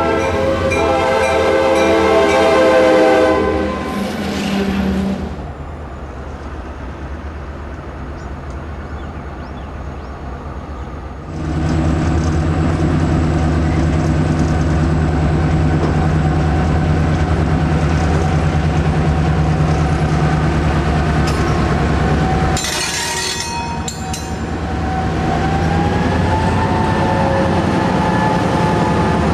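Diesel locomotive air horn blowing a chord for about four seconds, then fading. After that comes the steady low drone of diesel locomotive engines working, which starts and changes abruptly at cuts between shots.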